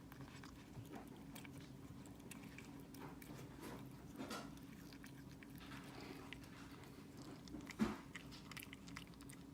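A cat chewing a piece of mackerel fish treat: faint, scattered biting and chewing clicks, with one sharper knock near the end.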